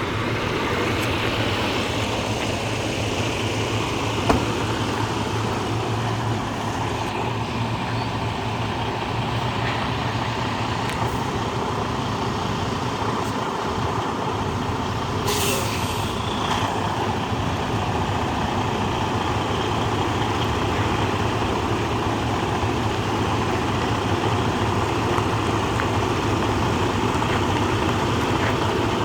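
Semi-truck's diesel engine running steadily at low speed while the rig reverses. About halfway through comes a short, sharp hiss of air.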